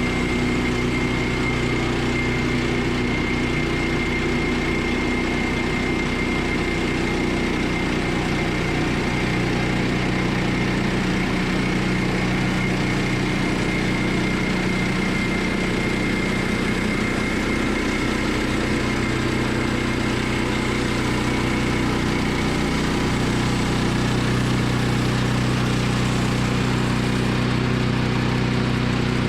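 Woodland Mills portable bandsaw mill running steadily, its gas engine working while the band blade cuts through a large log, with a thin steady high whine over the engine hum.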